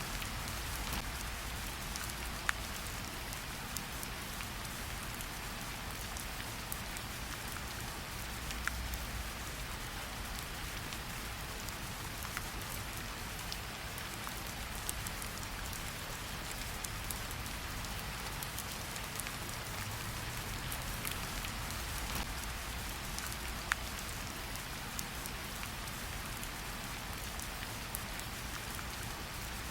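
Steady rain falling, with a continuous patter and scattered sharper drop ticks over a low rumble.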